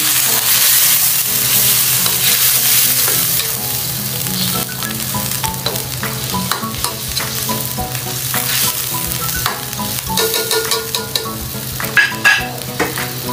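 Squid simmering and sizzling in a soy sauce and vinegar braise in a nonstick wok, with a spoon stirring and scraping through it in many small clicks. Near the end the spoon clinks down onto a plate.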